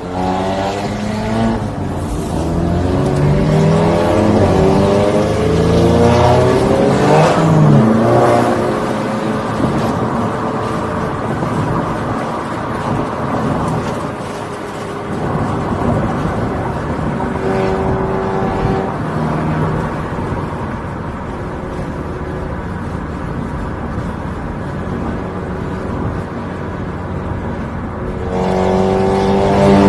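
Volkswagen Golf GTI Mk7's turbocharged 2.0-litre four-cylinder, fitted with an aftermarket ECS Tuning exhaust, accelerating hard with a rising engine note, the pitch dropping as the car passes about seven seconds in. The engine then runs lower and steadier, and pulls up in pitch again near the end.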